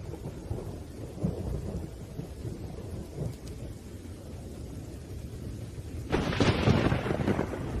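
Thunderstorm: rain with a low, steady thunder rumble, then a sharp, close thunderclap about six seconds in that fades over a second or so.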